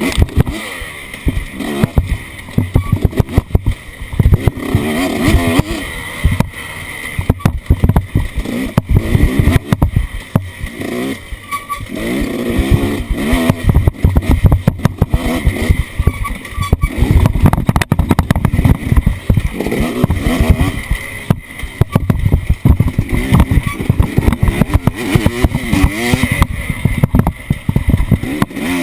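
Off-road vehicle engine revving up and dropping back again and again while driving over rough ground, with frequent knocks and rattles.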